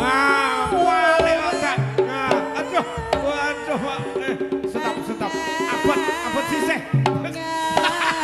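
Live Javanese dance music: hand drums beating a busy rhythm under gamelan-style accompaniment, with a wavering, vibrato-laden melody line on top.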